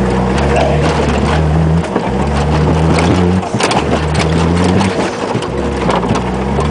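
Peugeot 306 1.9 turbo-diesel engine running under load as the car is driven over a ploughed field. The engine note comes in four steady spells with short breaks between, over continuous knocking and rattling from the rough ground.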